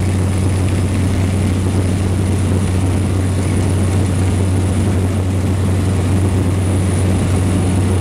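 Cessna 208 Grand Caravan's single turboprop engine and propeller running steadily at power, heard from inside the cabin as a loud, even low drone with a thin high whine above it.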